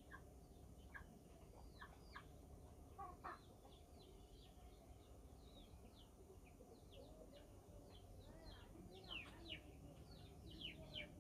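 Faint bird calls: many short, quick downward chirps, coming thicker in the last few seconds, with a few lower, clucking-like calls among them.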